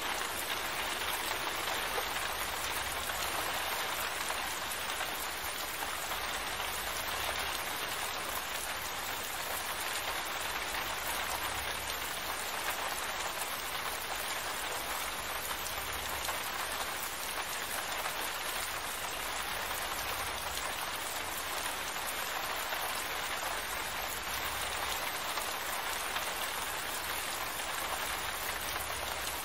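Steady rain falling, an even, unbroken hiss of drops. A faint low rumble comes and goes underneath.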